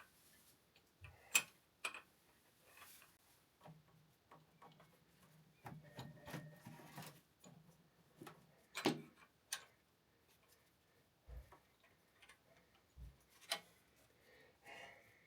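Scattered, irregular metal clicks and clinks of hand tools on the fittings of a diesel injection pump as its connections are undone, with a faint low hum in the middle.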